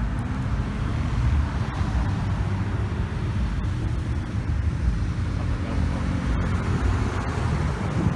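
A car engine running with a steady low rumble from the exhaust.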